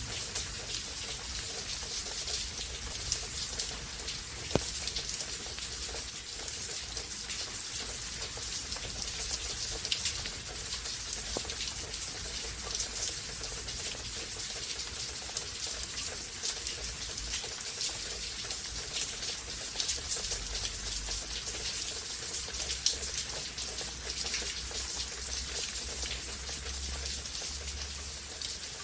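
Steady rain falling, heard as a dense patter of individual drops over an even hiss of rainfall.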